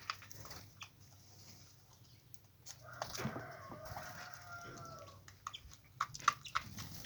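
A rooster crowing once, a pitched call lasting about two seconds that falls slightly at the end. Scattered short taps and clicks come before and after it.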